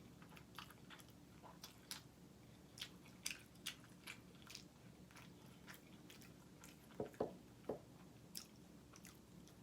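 Close-up sounds of a person chewing food with the mouth: soft wet clicks and smacks, a few a second, with a few louder ones about seven seconds in.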